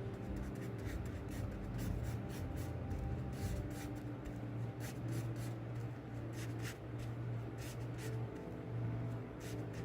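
Paintbrush strokes on a small stretched canvas: repeated short, scratchy brushing sounds at an irregular pace, over soft sustained background music.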